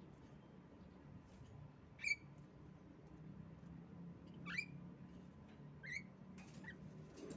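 Female Javan myna giving a few short, high chirps, spaced a second or two apart, with some faint clicks near the end over a low steady hum.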